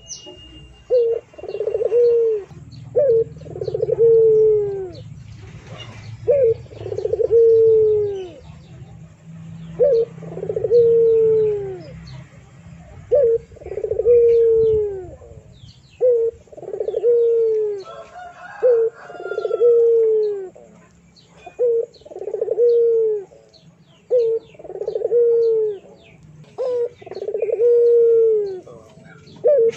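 A bird cooing over and over, roughly one call every one to two seconds, each a short note followed by a longer one that falls in pitch.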